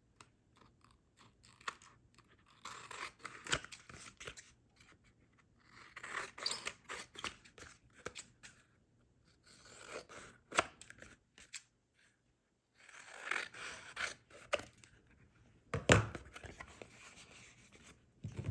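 Scissors snipping through a postcard with paper glued on, trimming round its edges in several short runs of cuts with pauses between.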